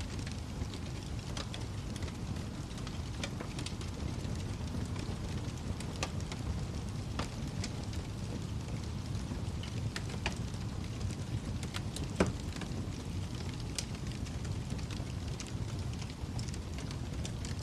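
Wood fire crackling in a fireplace: a steady low rumble of flames with scattered sharp pops at irregular intervals, one louder pop about twelve seconds in.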